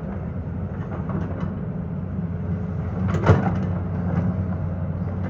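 Excavator's diesel engine running steadily, with scattered metallic clanks and one louder clank about three seconds in.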